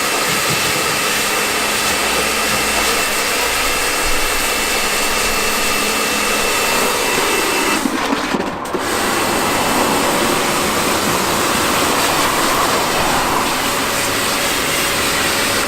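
Pressure washer spraying water onto a car, a steady loud hiss of the jet over the machine's running whine. The spray cuts out briefly about eight seconds in, then starts again.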